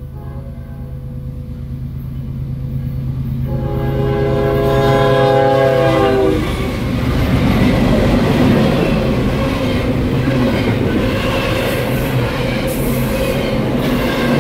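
Approaching train: the locomotive horn sounds a chord that cuts off about six seconds in. The train then passes over the crossing with loud, rising wheel and rail noise.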